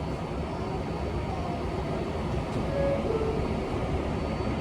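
Interior rumble of an R188 subway car on the 7 line getting under way after the doors close: a steady low rolling noise with faint short tones from the train's motors.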